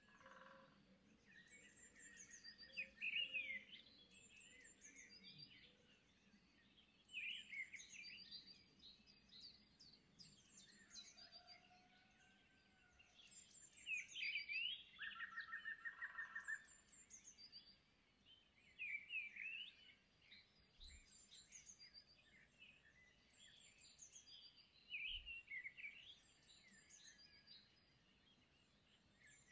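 Faint birdsong: small birds chirping and trilling in short repeated phrases, with a couple of brief buzzy trills.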